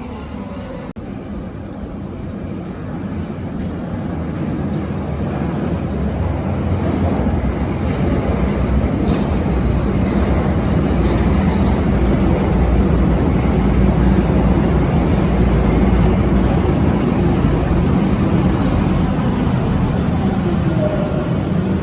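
Berlin U-Bahn large-profile train running on the track, a steady rumble of wheels and running gear that grows louder over the first dozen or so seconds and then holds.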